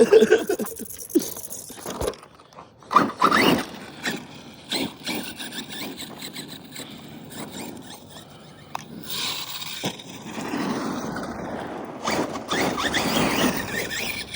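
Arrma 6S brushless RC car driving in bursts, its tyres scraping over the ground, with a rising motor whine about three seconds in and further stretches of scraping near the middle and the end.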